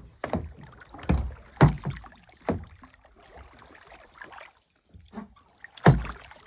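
Kayak being paddled: a handful of irregular paddle knocks and thumps against the hull, several in the first few seconds and the loudest one near the end.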